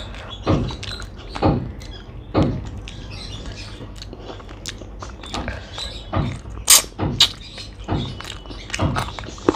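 Close-up chewing of a mouthful of rice and chicken curry, with wet mouth sounds about once a second, then fingers mixing rice on a plate and a few sharp clicks about two-thirds of the way through.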